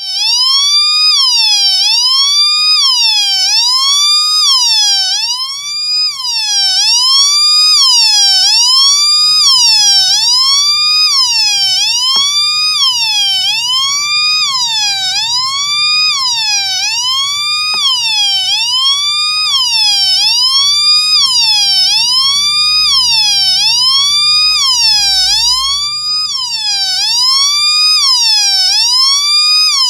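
Homemade two-NE555-timer police siren circuit sounding through a small 4-ohm speaker: a buzzy electronic tone that glides up and drops back again and again, about once every second and a quarter. One timer runs as a slow oscillator sweeping the pitch of the second timer.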